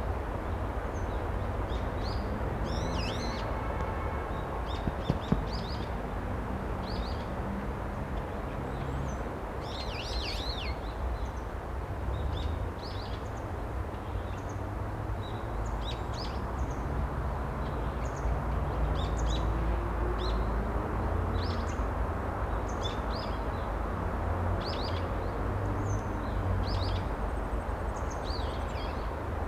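Small birds chirping and twittering, many short high calls scattered throughout, over a steady low rumble. A few sharp clicks about five seconds in.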